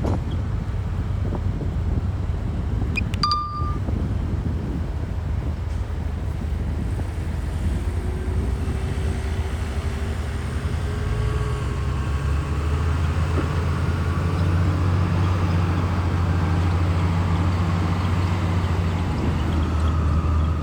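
Heavy diesel engine of earthmoving equipment running steadily, growing louder with a slowly rising pitch over the second half. A brief metallic clink comes about three seconds in.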